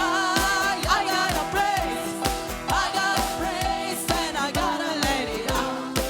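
Live worship band music: a steady drum beat under sung melody and held instrument chords.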